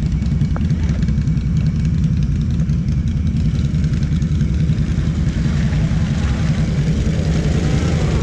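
ATV engine idling steadily at close range. A fainter, higher wavering sound comes in over the last couple of seconds.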